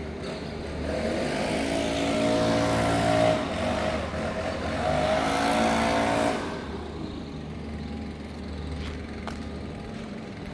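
A motor vehicle's engine revving as it passes close by, its pitch rising twice before it fades about six seconds in, leaving quieter street noise.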